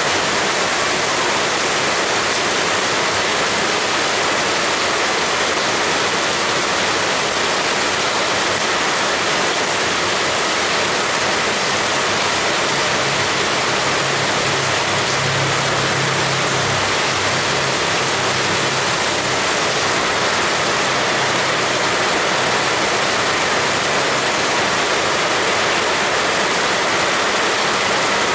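Heavy rain pouring in a steady, dense hiss, with a faint low drone rising and fading about halfway through.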